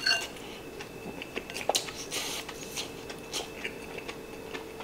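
A person chewing a mouthful of rice bowl of pork, greens and egg, with scattered light clicks of wooden chopsticks against the bowl. A faint steady hum runs underneath.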